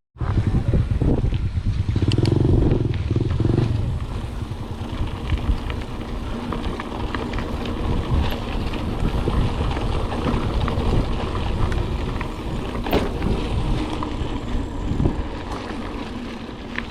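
Mountain bike riding over rough, bumpy ground: a constant low rumble with wind on the microphone and scattered rattles and knocks from the bike.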